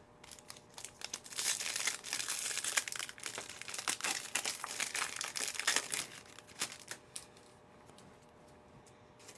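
A sports-card pack's plastic wrapper being torn open and crinkled by hand, a dense run of crackles and small snaps that dies away about seven seconds in.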